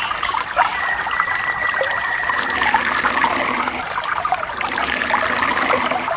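Water trickling and splashing steadily from a small toy motor water pump, with a faint steady whine underneath.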